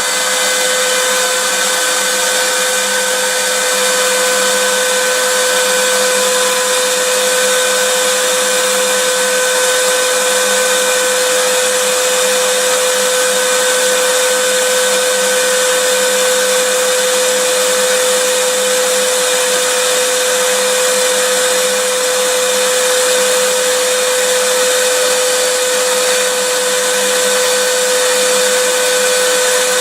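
Vacuum cleaner running steadily: an even rush of air with a constant hum, and little low rumble.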